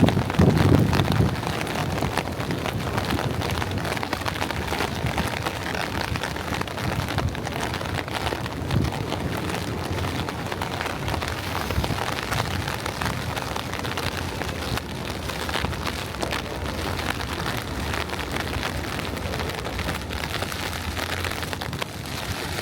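Steady patter of rain, with wind buffeting the microphone in the first second or so.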